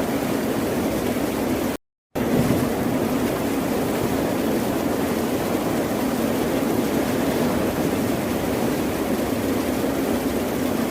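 Steady rushing of ocean surf, with a brief dropout about two seconds in where the sound cuts out completely for a moment and then resumes.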